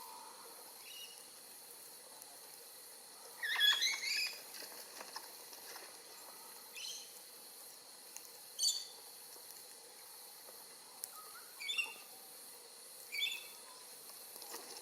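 Birds calling: five short, high chirping calls a few seconds apart, the first, about three and a half seconds in, the loudest and longest.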